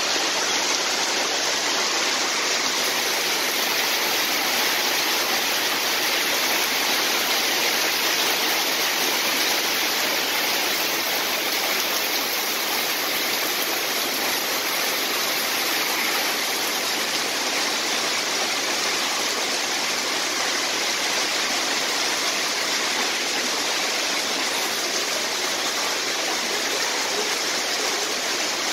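Heavy rain falling steadily, an even hiss, with water pouring off the edge of a corrugated roof.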